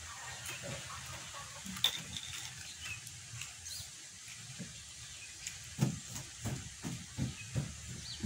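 Close-up mouth sounds of someone eating rice with raw leafy vegetables by hand, with one sharp crunch about two seconds in. From about six seconds in, steady open-mouthed chewing runs at about three chews a second.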